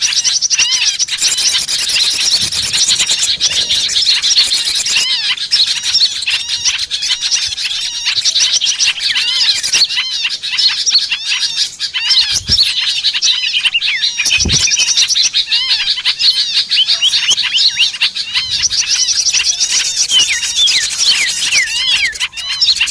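Dense, unbroken chorus of many small birds chirping and chattering over one another, a bird-luring (pikat) recording of noisy small birds. There are two brief low thumps near the middle.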